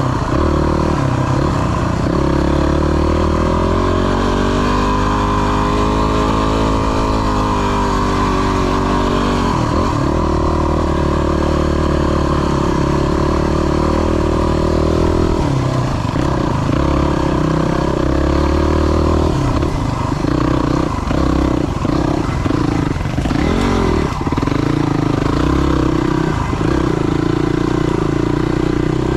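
Yamaha WR250's single-cylinder four-stroke engine running under way, its pitch rising and falling with the throttle: one long swell in revs and then several quick throttle changes past the middle.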